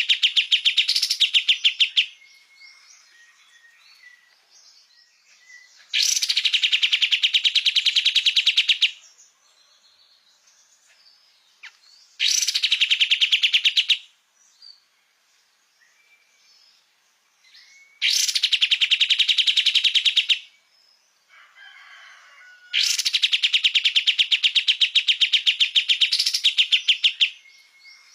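Kapas tembak bird singing persistently, in bursts of a fast, evenly repeated note lasting two to four seconds, five times, with faint chirps between bursts.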